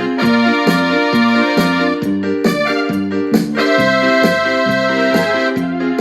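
Casio WK-6500 keyboard's built-in sequencer playing a full arrangement with the keyboard's own sounds: a bass line stepping through short repeated notes under held electric-piano and organ chords, with regular percussion strokes.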